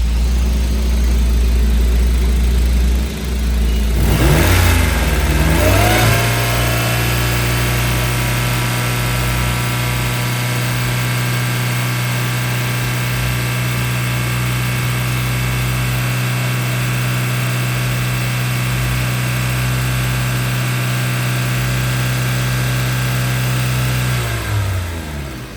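1997 Honda Civic 1.6L four-cylinder engine started about four seconds in, its speed flaring and settling into a steady idle, then shut off near the end, winding down. A low steady hum comes before it starts.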